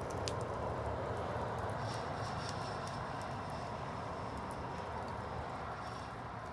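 Bonfire burning: a steady rush of flames with scattered sharp crackles and pops.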